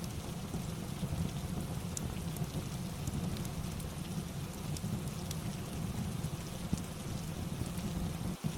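Steady rain ambience with a low rumble, layered with the scattered light crackles of a fireplace. The sound dips out for an instant near the end.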